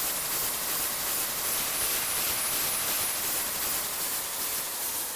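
Airliner jet engines running: a steady, even hiss.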